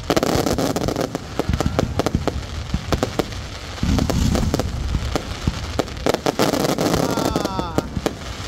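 Aerial fireworks bursting in a rapid, irregular run of sharp bangs over a continuous crackling rumble. A few falling tones come in near the end.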